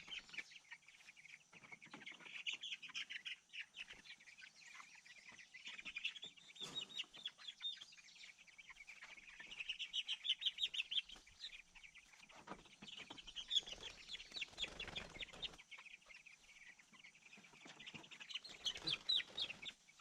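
A flock of young meat chickens peeping in quick runs of high chirps that come and go in waves, with occasional rustling and knocks.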